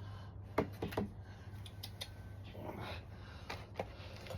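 A few light clicks and taps, like small objects being handled, over a low steady hum: two or three close together about a second in and two more near the end.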